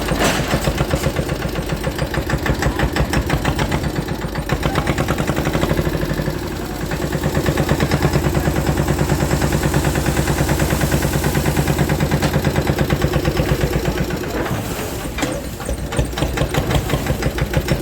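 Swaraj 717 mini tractor's single-cylinder diesel engine running with an even, rapid firing beat; it eases off briefly near the end, then picks up again.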